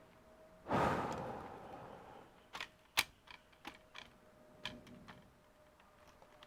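Laptop parts being handled during repair: a dull thud with a short rumble about a second in, then a series of sharp plastic clicks.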